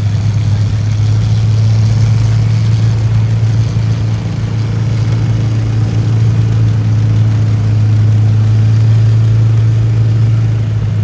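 Tractor engine running steadily at a constant speed, a loud, even low hum that neither rises nor falls.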